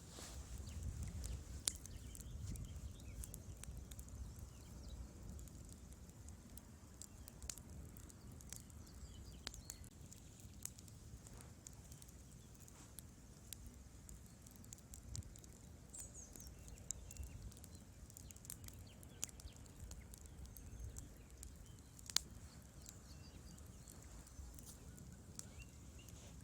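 Wood fire burning in a fireplace: irregular sharp crackles and pops over a low, steady rumble of the flames, with a louder pop about 22 seconds in.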